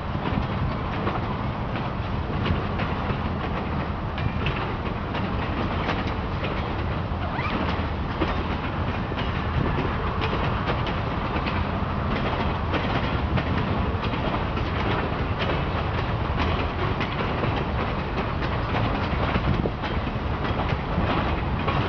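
Freight train rolling past: a steady rumble with frequent clicks of steel wheels over the rail joints.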